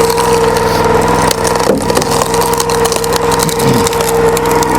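Gas log splitter engine running steadily with a steady whine, while the wedge forces through a log with a series of sharp cracking and splintering sounds.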